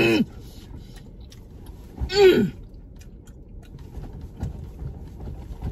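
Eating sounds: an appreciative "mmm" trailing off at the very start and another short "mm" about two seconds in, with soft chewing of food in between.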